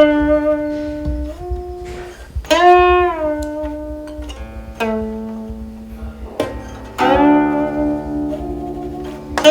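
Guqin played solo: single plucked notes ring on and bend in pitch as the left hand slides along the string, two of them falling right after the pluck. Near the end a fuller struck sound of several notes rings out together.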